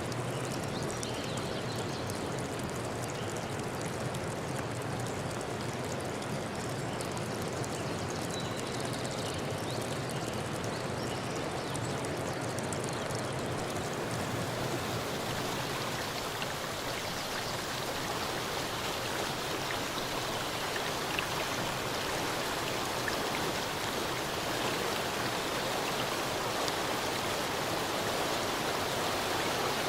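Forest stream running steadily, a continuous rush of flowing water; about halfway through the sound gets a little brighter and fuller.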